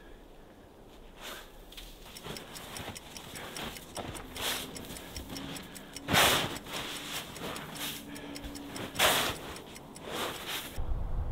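Snow shovel scooping and scraping through deep, light snow in several separate strokes, the loudest about six and nine seconds in, over a steady clock-like ticking.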